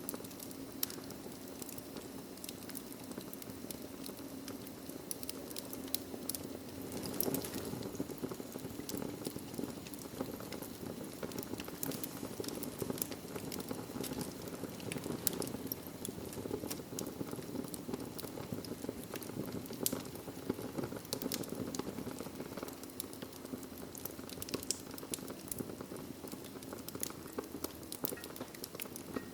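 Wood fire crackling in a fireplace: a steady low rush of flame with frequent sharp pops and snaps scattered throughout.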